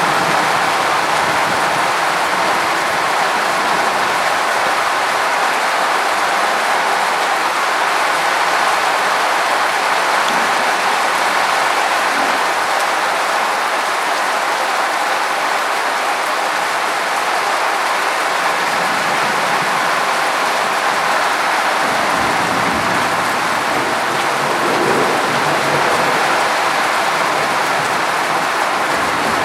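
Steady rain falling in a thunderstorm, an even hiss of drops that does not let up. A low rumble joins in for a few seconds past the middle.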